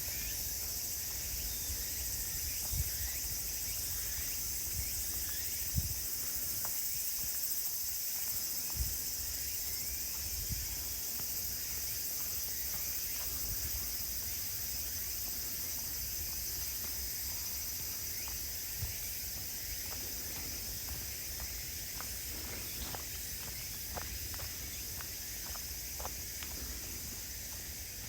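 Steady high-pitched chorus of late-summer insects, crickets among them, with the soft thuds of footsteps on a woodland path and a few light clicks, like twigs or leaves underfoot, toward the end.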